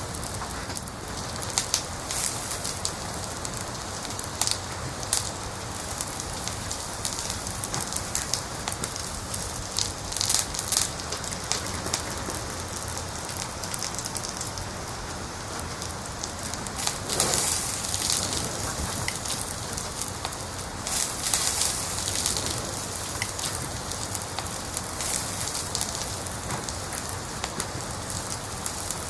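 Wood fire in a fireplace crackling: a steady hiss with scattered sharp pops and snaps, and a few flurries of louder, denser crackling.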